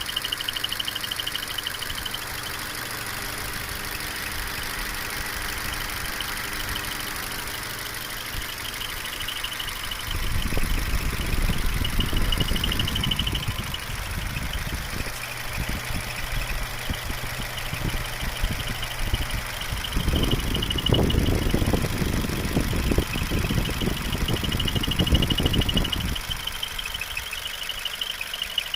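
2002 Nissan Altima four-cylinder engine idling with a fast, high-pitched chirping squeal from the alternator or accessory belt, which the owner cannot yet pin on either. Stretches of low rumbling come in about ten seconds in and again around twenty seconds in.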